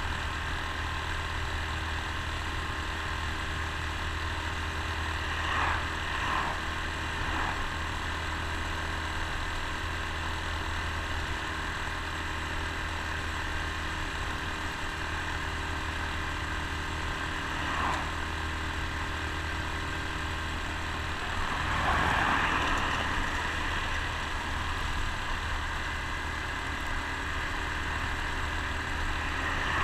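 Honda Super Cub C125's single-cylinder four-stroke engine running steadily at cruising speed, with a few brief swells of rushing noise, the loudest about two-thirds of the way through.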